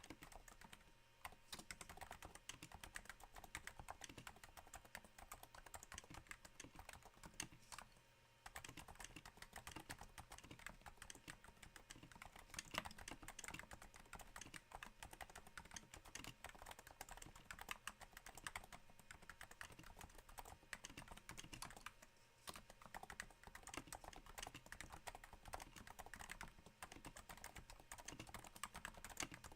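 Steady typing on a Cooler Master Novatouch keyboard's Topre switches, damped by Hypersphere silencing rings: a quiet, rain-like patter of keystrokes, with brief pauses about a third of the way in and about three-quarters through.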